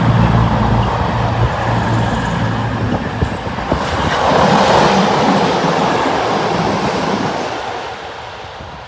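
Locomotive-hauled train running past: a steady low hum at first, then rushing wheel-on-rail noise that swells about four to five seconds in and fades away near the end, with a few sharp clicks along the way.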